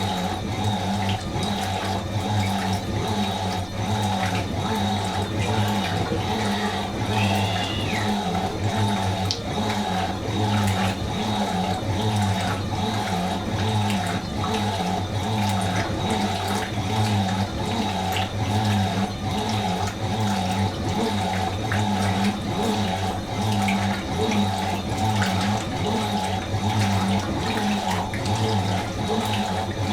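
Fisher & Paykel MW512 washing machine running a cycle: water rushing over a steady motor hum that pulses at a regular beat.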